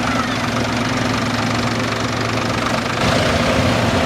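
Farm tractor engines running as tractors drive past in a parade line, growing louder about three seconds in as a closer one comes by.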